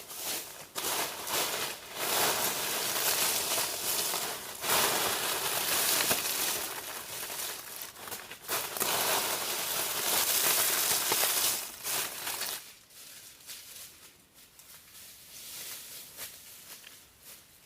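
Dry plant material crunching and crinkling as it is crushed or handled, in irregular stretches. It is loud until about twelve seconds in, then drops to a faint rustle.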